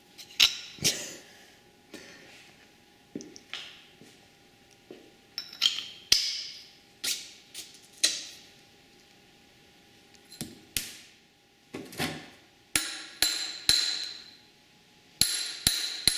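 Hammer blows on metal, each ringing briefly, striking a stuck dirt bike wheel axle and bearing. The blows come singly and irregularly at first, then in quicker runs of strikes near the end.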